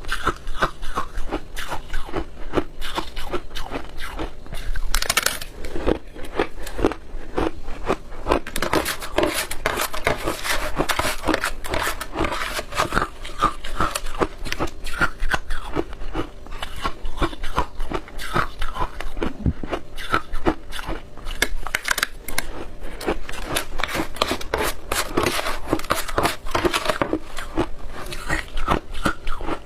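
Close-miked crunching and chewing of shaved ice dusted with milk powder: a dense, continuous run of crisp crackles and crunches.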